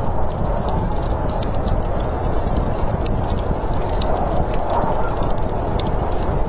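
Fire crackling, with scattered sharp pops over a steady low rushing noise.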